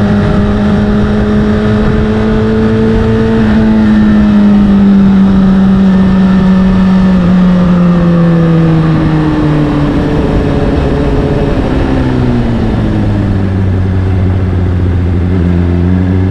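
Honda CBR600RR inline-four engine through an Akrapovic exhaust, running at a steady pitch, then falling in pitch as the throttle is rolled off about eight seconds in. It settles into a lower, even note near the end.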